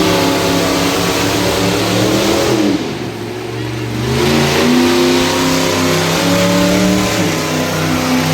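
Monster truck engine revving hard at high revs, easing off briefly about three seconds in, then revving up again and holding before stepping down near the end.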